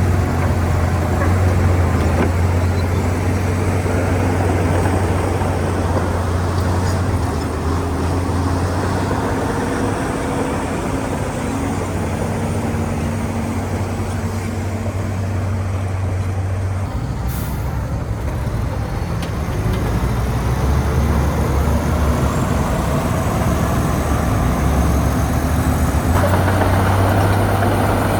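Heavy diesel engine of earthmoving machinery running steadily, its note dropping lower about two-thirds of the way through and rising again near the end. A short hiss sounds around the middle.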